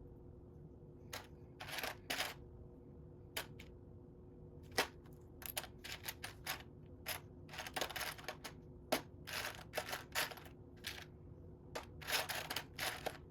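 Loose plastic Lego pieces clicking and rattling against each other as they are picked through by hand, in irregular clusters of small clicks.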